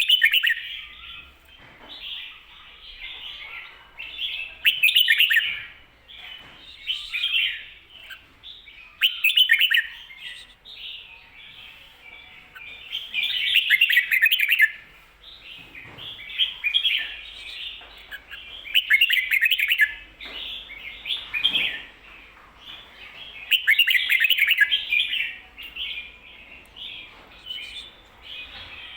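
Red-whiskered bulbul singing its doubled 'ko-ta-ra' song, bright chirpy phrases repeated every second or two, with louder, fuller phrases every four to five seconds.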